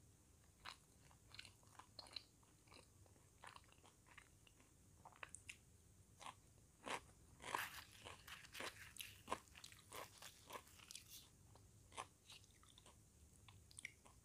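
Close-miked mouth sounds of crunching and chewing raw salad vegetables: irregular crisp crunches, busiest and loudest in the middle, then fading to softer chewing near the end.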